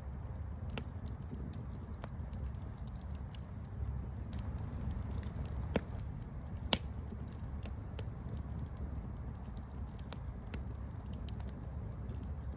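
Campfire crackling: a low, steady rumble of burning wood with scattered sharp pops and snaps. The loudest pop comes about seven seconds in.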